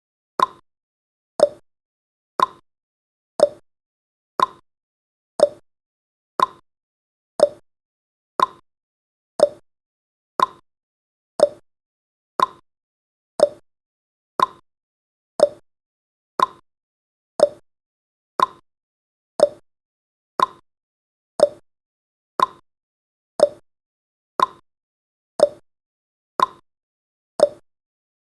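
Countdown timer's ticking sound effect: one short tick each second, evenly spaced and steady.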